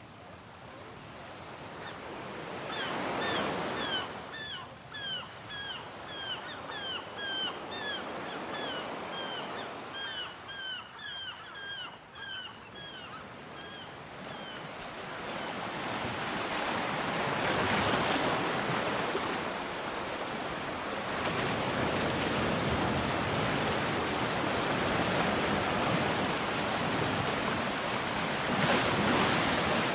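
Ocean surf: waves washing in, swelling loudest about 3 s, 18 s and 29 s in. Over the first half a bird gives a rapid series of short, repeated calls, about two a second, which stop about halfway through.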